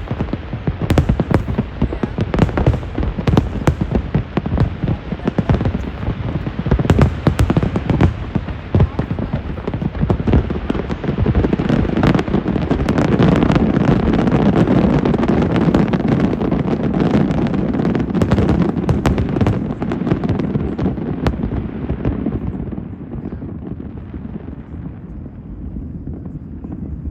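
Fireworks display: a rapid series of bangs and crackles, then a denser, continuous rumble of many shells that builds through the middle and fades about 22 seconds in.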